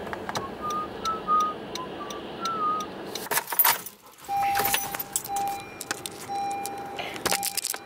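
Keys jangling with small metallic clicks. Short high chirps in the first few seconds, then a steady beeping tone repeating on and off through the second half.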